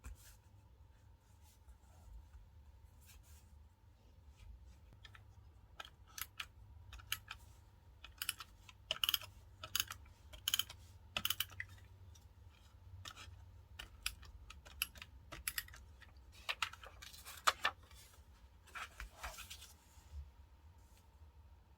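Diary decorating at a desk: irregular crisp clicks and short scratchy strokes of paper and stickers being handled, some coming in quick clusters.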